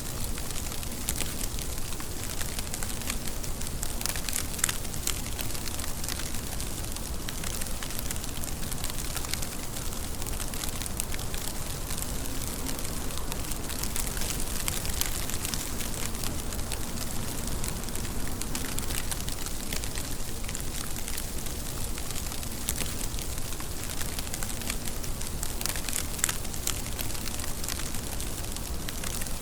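Steady rain: an even hiss with a dense patter of sharp drop ticks.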